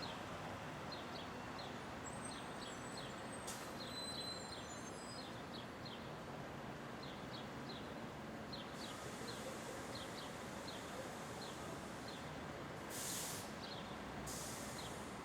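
Steady downtown street ambience with a constant traffic hum. Small birds chirp over it again and again in short, quick notes. Two brief hisses come near the end.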